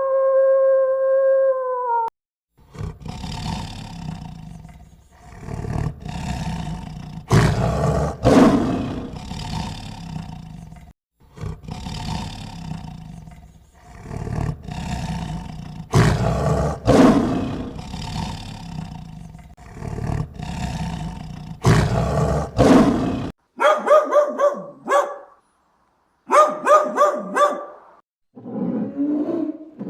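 A long, steady howl ends about two seconds in. Then a large wild animal roars again and again for about twenty seconds, in long, rough roars with a deep rumble. Near the end come clusters of short, quick, high calls.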